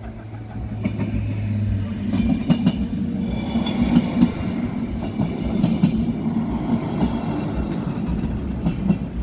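A train passing at close range, its wheels clacking irregularly over the rail joints. The rumble builds over the first two seconds, then holds steady.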